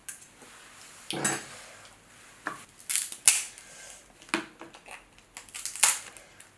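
Crab shells being cracked and picked apart by hand while eating: a series of irregular sharp cracks and snaps, loudest about three seconds in and again near the end.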